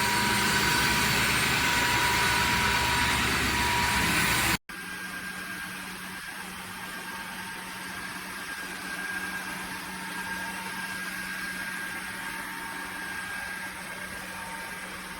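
Dreame H12S wet-dry vacuum mop running steadily while it vacuums and mops the floor. The sound cuts off abruptly about four and a half seconds in and gives way to a quieter steady machine hum.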